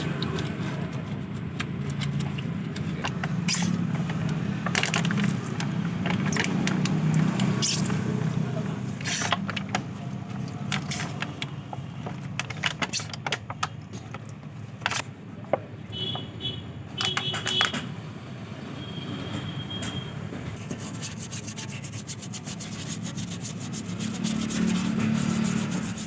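An engine running steadily, louder in the first few seconds and again near the end, with scattered sharp clicks, knocks and scraping of tools over it.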